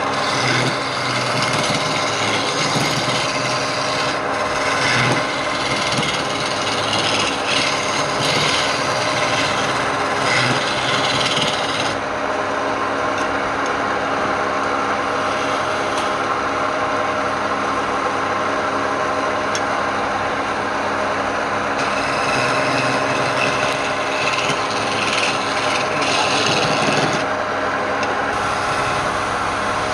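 Wood lathe running with a steady motor hum while a tool rasps against the spinning wood. The scraping is heavy for about the first twelve seconds, eases to the hum alone, then comes back for a few seconds near the end.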